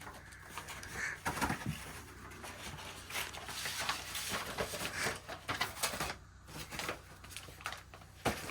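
Sheets of paper prints being handled and shuffled, with irregular rustles, light taps and clicks.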